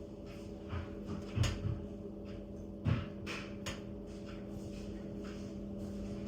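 Wood fire crackling in a fireplace: irregular sharp pops and snaps from the burning logs, with the loudest pops about a second and a half in and again around three seconds in, over a steady low hum.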